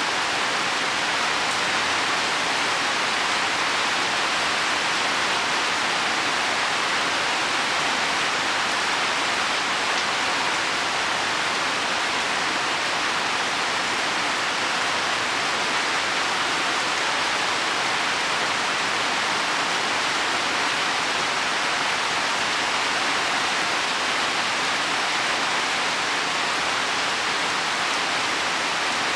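Heavy rain falling steadily on leaves and soil, an even hiss with no let-up.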